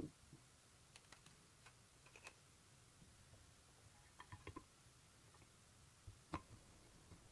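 Faint workshop handling noises: a knock at the start and a louder one about six seconds in, with scattered light clicks and ticks between, as small parts or tools are picked up and set down.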